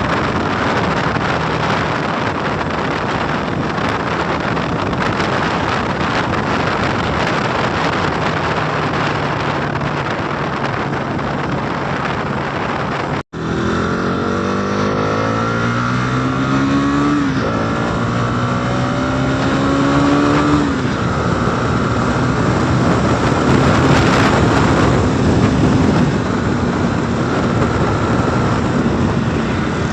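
Motorcycle riding at speed, with wind rushing over the microphone. After a brief dropout about halfway, the engine revs up and its pitch climbs and falls back twice as it shifts up through the gears, then it runs steadily at speed.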